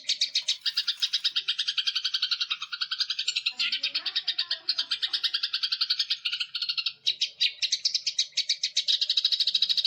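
Songbird song: a fast, continuous chattering trill of about a dozen notes a second, high-pitched, its lower edge dropping for a few seconds and then rising back, with fainter lower warbled notes around the middle and near the end.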